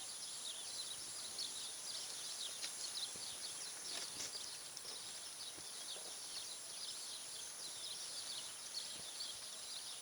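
Many small birds chirping busily, with short quick calls overlapping throughout, over a steady high-pitched buzz.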